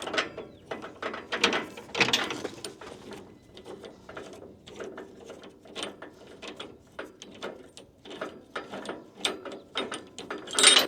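A hand ratchet being worked, a quick, uneven series of ratchet clicks, heaviest near the start and again near the end.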